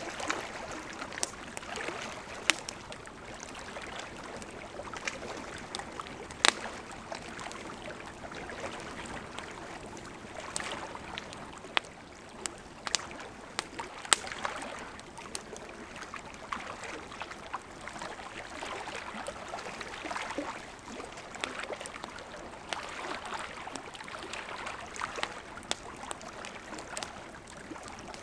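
Wood campfire burning: a steady hiss and rush of flames that swells and eases, with irregular sharp crackles and a few louder pops of burning wood.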